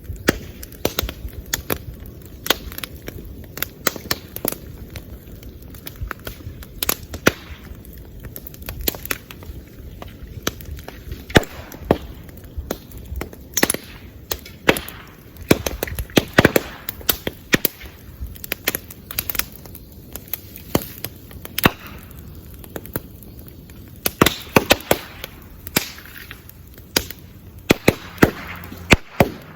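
A bamboo bonfire burning, its culms going off in sharp, irregular pops and cracks over a steady crackle, with a few stretches of hissing. The pops are sealed bamboo sections bursting as the air and steam trapped between the nodes heat up.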